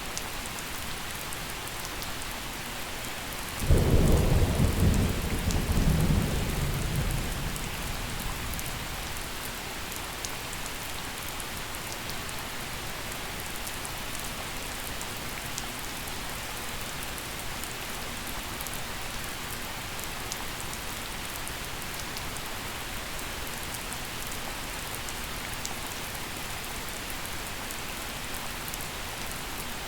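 Steady gentle rain falling, with one thunderclap about four seconds in: a sudden loud low rumble that rolls for a few seconds and dies away, leaving the rain.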